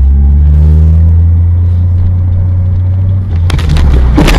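A loud, steady, low drone of a car on the road. Near the end a quick cluster of sharp knocks or impacts sets in.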